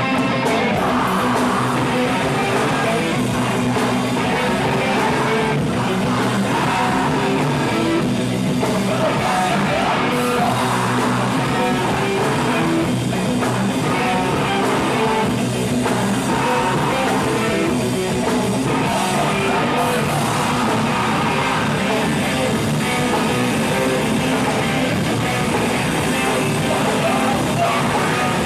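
Live rock band playing, electric guitars and vocals mixed together, steady and loud throughout.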